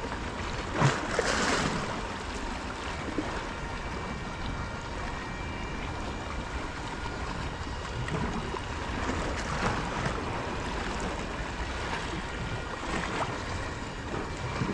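Sea surf washing against a rocky shore, a steady rush of water noise that swells and falls. About a second in there is a sharp knock, followed by a louder surge of wash.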